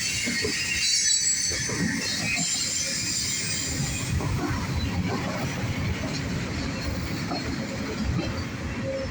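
Freight cars of a CSX mixed manifest train rolling past, with a steady low rumble and irregular wheel and coupler clatter. High-pitched wheel squeal sounds over the first few seconds, then dies away.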